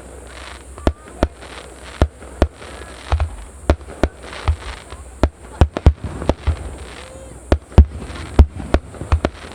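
Fireworks shells bursting in quick succession: sharp bangs about every half second, coming thicker toward the end, over a low rumble.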